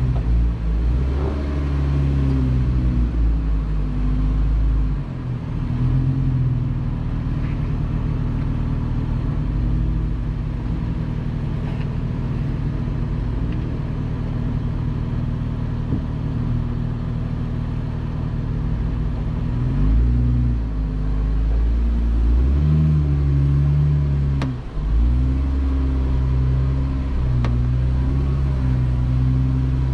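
Jeep Wrangler engine running at low speed off-road, its revs rising and falling several times as it works over the trail.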